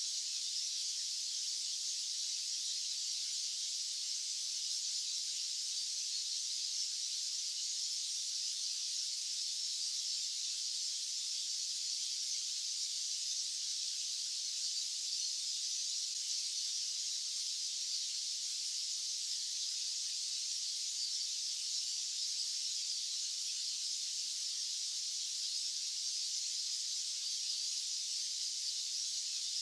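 White-noise track: a steady, even hiss that sits high in pitch, with no low rumble, and does not change.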